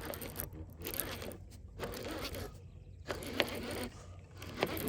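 Baitcasting reel being cranked in several short spells, its gears whirring, as a hooked bass is reeled in.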